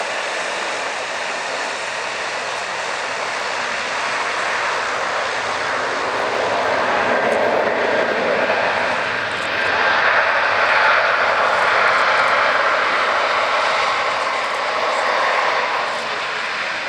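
Airliner passing close by, its engine noise building steadily to a peak about ten seconds in and then easing off.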